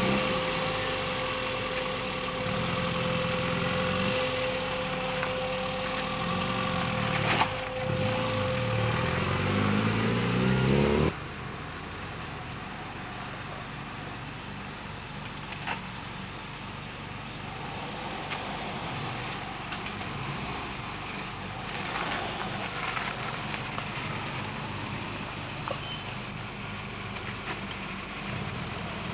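Classic Mini car engines running as the cars manoeuvre, rising and falling in pitch for the first eleven seconds or so. The sound drops off abruptly about eleven seconds in, leaving quieter engine running.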